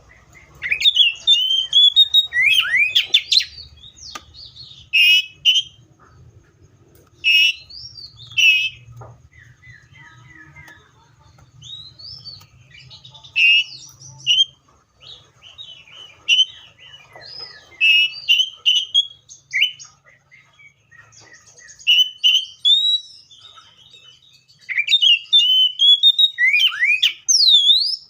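Seychelles magpie-robin singing: loud bouts of varied whistled phrases with quick rising and falling notes, broken by short pauses.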